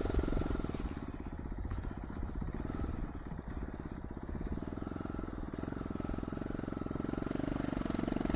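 Dual-sport motorcycle engine running on a dirt trail, easing off from about a second in and pulling back up about halfway through.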